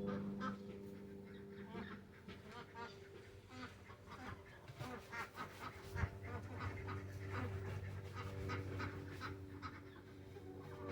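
Backyard ducks quacking and calling in short, repeated bursts over a steady low hum, with a single knock about six seconds in.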